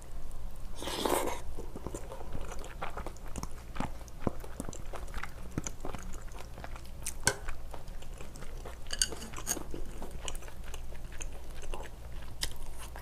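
Close-miked chewing of a mouthful of rice with spicy stir-fried octopus, beef intestines and shrimp: soft wet chewing with many small clicks and crunches. The loudest moment comes about a second in, as the bite goes into the mouth.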